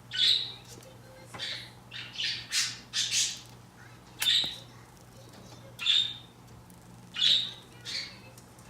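Green-cheeked conure squawking: about ten short, shrill calls in irregular bursts, a quick cluster of several around two to three seconds in, then single calls spaced a second or more apart.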